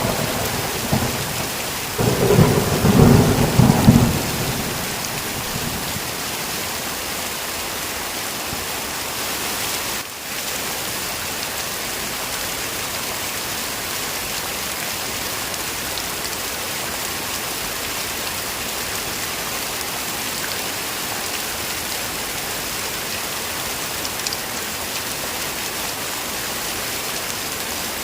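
Steady heavy rain with thunder. A rumble fades out at the start, and a second loud roll of thunder comes about two seconds in and dies away by about four and a half seconds. After that only the even hiss of rain remains.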